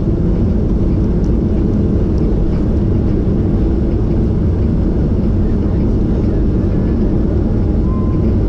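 Steady, loud low rumble of an airliner's jet engines and airflow heard from inside the passenger cabin.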